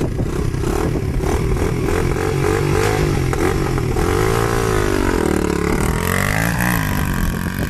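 110cc pit bike's small single-cylinder four-stroke engine running loud and being revved, its pitch wavering, then dipping and climbing back up about halfway through.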